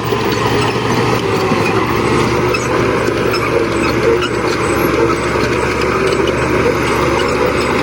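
Diesel engine of heavy earthmoving machinery running steadily and loudly.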